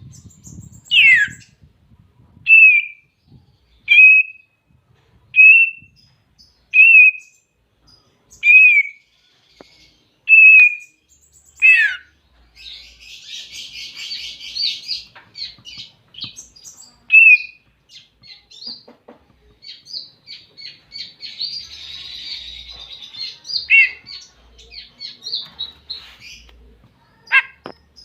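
Green leafbird (cucak ijo) calling: for the first twelve seconds, a string of loud, clear single whistles about one every second and a half, some sweeping downward. Then a fast, dense chattering warble with a few loud down-slurred whistles mixed in. This is the leafbird's challenge call to a rival.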